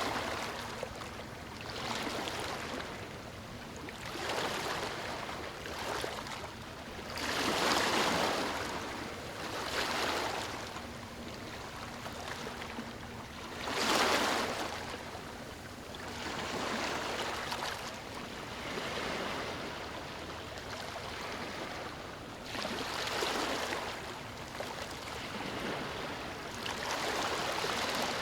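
Ocean waves breaking and washing up on a beach, the surf rising and falling every few seconds. The biggest waves come about eight and fourteen seconds in.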